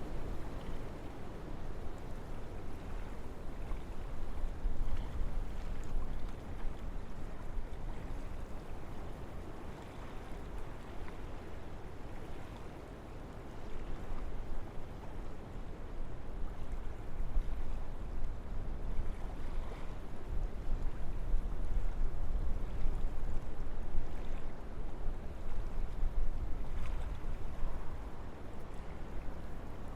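Wind blowing through forest trees: a continuous rushing noise with a deep rumble underneath, rising and falling in gusts.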